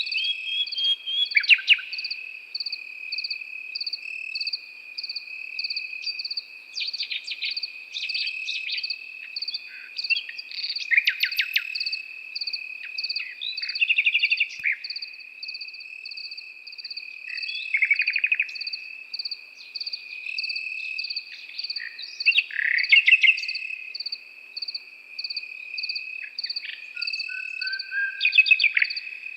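A nightingale singing separate short phrases of rapid repeated notes, trills and sweeps every few seconds. Under the song, crickets keep up a steady high trill, and a second insect chirps about twice a second.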